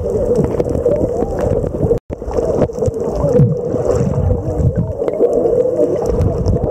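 Steady, muffled rumble of moving water with gurgling. It cuts out abruptly for a split second about two seconds in.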